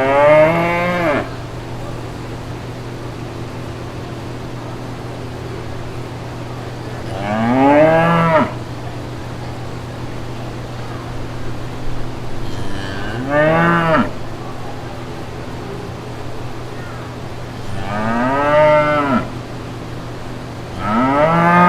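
Cow mooing five times, a few seconds apart, each moo rising and then falling in pitch, over a steady low hum.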